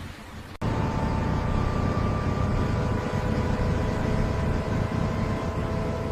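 A steady low mechanical rumble with a hum of several steady tones over it. It starts abruptly just over half a second in.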